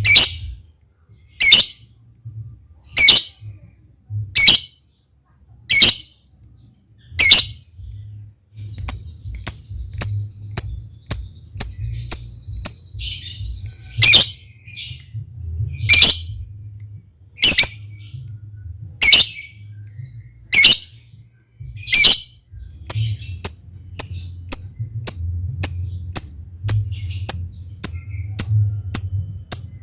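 Lovebird giving sharp, shrill single calls about every one and a half seconds; from about nine seconds in, a quicker run of shorter calls fills the gaps between them. A low hum runs underneath.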